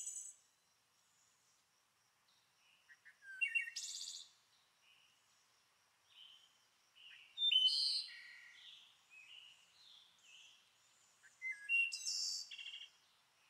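Birds chirping and singing in short, quick phrases, three bouts about four seconds apart, faint.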